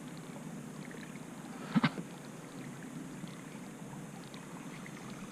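Steady low noise of a fishing boat on the water, with one short knock about two seconds in.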